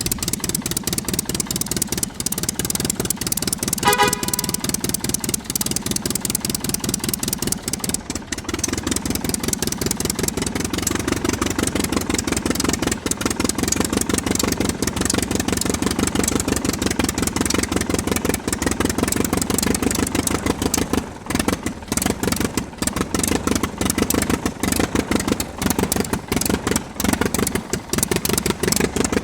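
Miniature diesel engine running steadily, a fast even clatter of firing strokes throughout. A short beeping tone sounds briefly about four seconds in.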